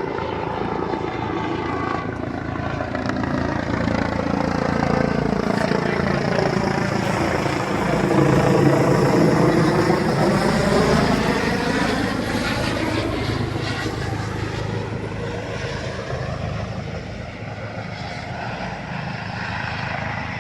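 Helicopter rotor and turbine engine close overhead as it comes down to land. It grows loudest about nine seconds in, with a whooshing tone that sweeps down and back up, then eases slightly.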